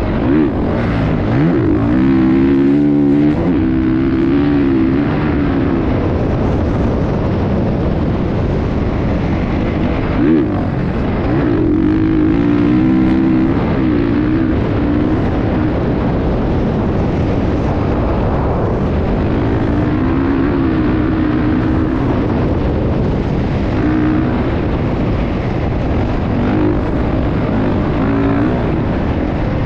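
Motocross motorcycle engine running, its pitch rising and falling in several stretches as the throttle is worked, over a steady loud rushing noise.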